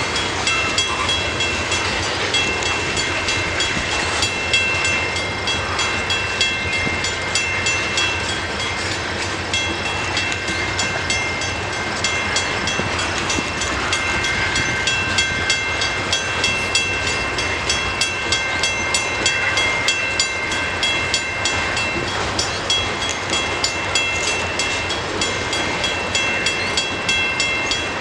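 Freight cars of a CN manifest train rolling past on the rails, with rapid clicking of the wheels over rail joints and a few steady high-pitched tones over the rumble.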